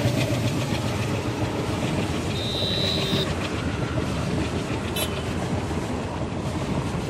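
Passenger coaches rolling past beneath, their wheels clattering over the rails in a steady rumble that slowly fades. A brief high whine sounds about two and a half seconds in.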